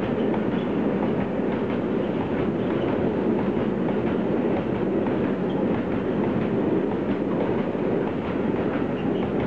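Freight train of covered hopper wagons passing close by: a steady rumble from the wagons, with rapid clicking of the wheels over the rail joints.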